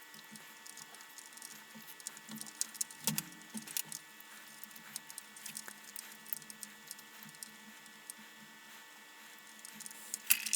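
Light, scattered clicks and taps of the lantern's plastic housing and small parts being handled and fitted together, over a faint steady hum.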